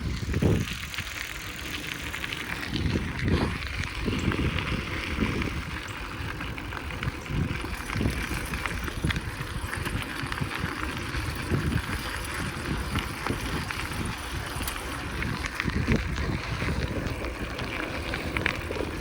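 Bicycle being ridden along a road: a steady rushing noise with irregular low rumbling surges.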